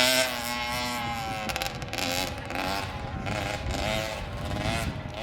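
Dirt bike engine running, its pitch wavering up and down as the throttle is worked.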